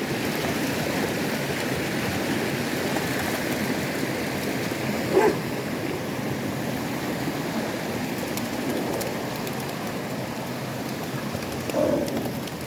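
Dogs in a river: a steady rush and splash of water, with a short dog bark about five seconds in and another near the end.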